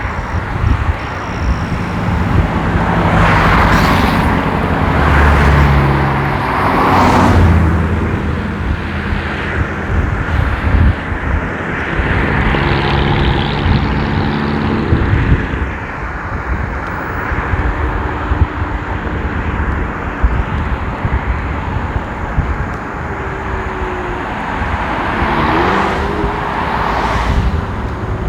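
Steady wind and road rumble while riding an electric scooter on a wet road, with cars passing and their tyres hissing on the wet surface, swelling loudly three times.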